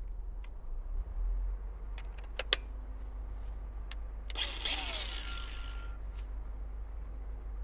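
Cordless angle grinder run in a short burst of about a second and a half with a steady high whine, after a few sharp clicks of the tool being handled. It is being readied to cut off a car door window's rivets.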